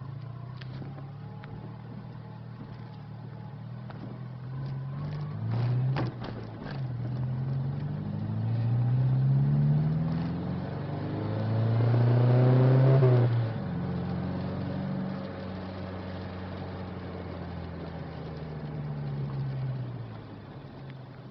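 Ford Fiesta's engine heard through its exhaust, blipped up from idle three times, each rev higher and louder than the last, the biggest about twelve seconds in, then dropping back to a steady idle. A few sharp pops come from the exhaust during the first rev.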